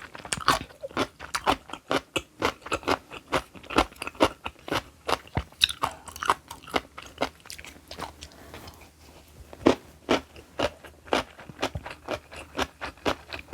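Mouthful of crisp, well-fermented kimchi being bitten and chewed: a steady run of sharp, wet crunches, a few a second, with a short pause about two-thirds of the way through.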